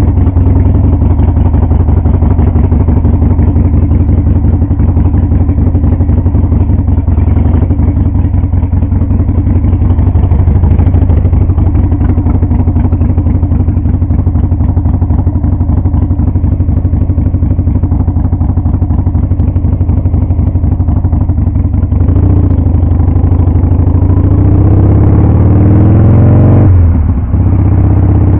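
Harley-Davidson Sportster 883's air-cooled V-twin engine running steadily. Late on, its pitch climbs for several seconds as it revs up, then drops abruptly and settles.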